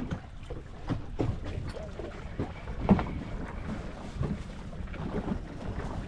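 Wind buffeting the microphone on a small open boat in rough water, with waves slapping and knocking against the hull at uneven intervals. One knock near the middle is louder than the rest.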